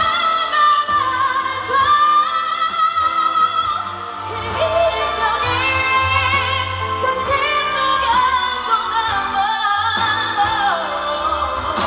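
A woman singing a pop ballad live with band backing, holding long high notes with a wide vibrato.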